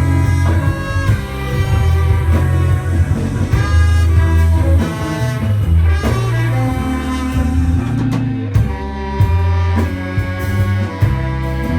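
Live instrumental band playing a jazzy groove: a horn section of saxophone, trombone and trumpet holding notes over electric bass and drum kit.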